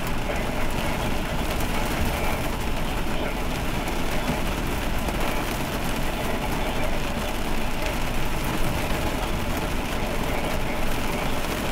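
Heavy rain beating on a vehicle, a steady dense noise that holds at one level throughout.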